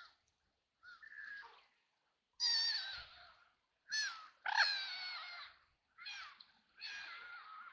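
White ducks quacking: a series of about six harsh, raspy quacks, some short and some drawn out, the loudest about halfway through.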